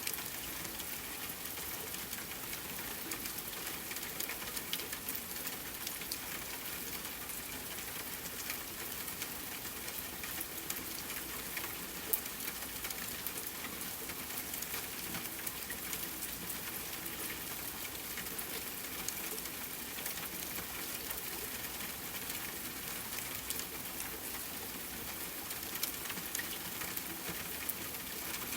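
Steady rain falling, with the patter of individual drops on a surface.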